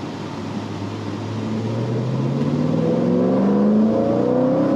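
Twin-screw supercharged V8 of a 2010 Chevrolet Camaro 2SS accelerating in gear, its pitch rising steadily and the sound growing louder from about a second in.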